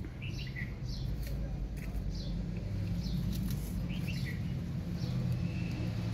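Small birds chirping: many short, high, falling chirps repeated every half second or so, over a steady low rumble.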